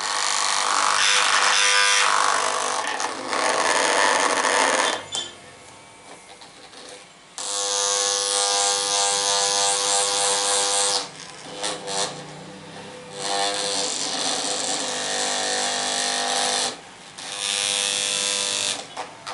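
A small handheld electric motor buzzing in about four runs of a few seconds each, cutting out between them.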